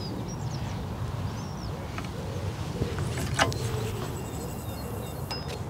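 Small birds chirping in short calls over a steady low background rumble, with a sharp click about three and a half seconds in.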